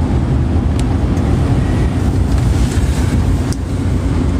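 A steady low rumble of vehicle noise, with a few faint clicks.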